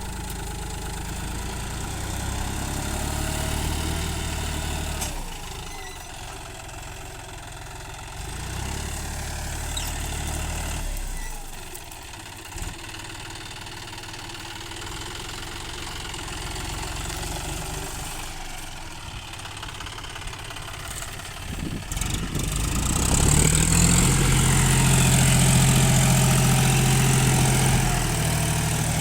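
Tractor diesel engine running, its sound changing in level and pitch several times. It becomes louder and steadier about three-quarters of the way through.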